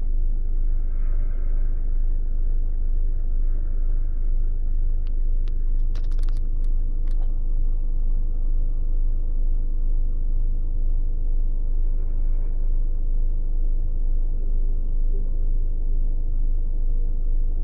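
Steady low rumble of a car engine idling, heard from inside the car's cabin, with a few sharp clicks about six seconds in.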